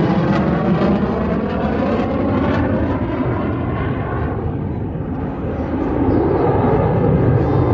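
F-16 fighter jet's engine noise during a low display pass, with a sweep falling in pitch as it goes by. The noise eases a little about five seconds in, then builds again.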